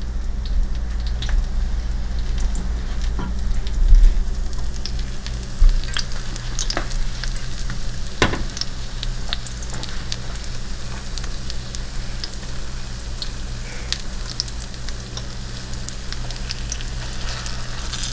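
Egg-soaked bread slices frying in bacon grease and butter in a cast iron skillet: a steady sizzle with scattered sharp pops and crackles over a low steady hum. Two low thumps about four and five and a half seconds in.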